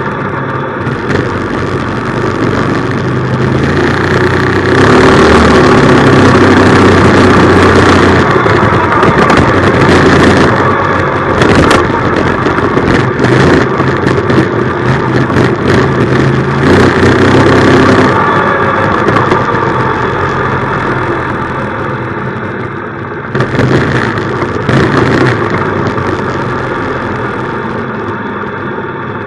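Minibike's small engine running while being ridden, its steady note swelling louder for a long stretch and then easing off, with a brief rise again near the end.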